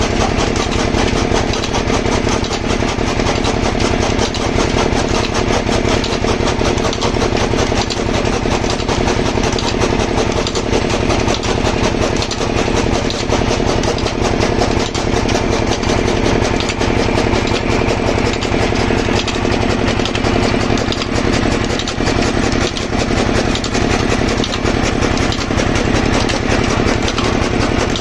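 Engine of an engine pumpset running steadily at constant speed, its rapid firing strokes even throughout, as it powers a chaff cutter machine.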